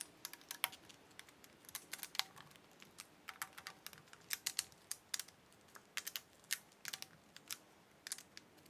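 Faint, irregular light clicks and taps, a few a second, of small hard objects being handled.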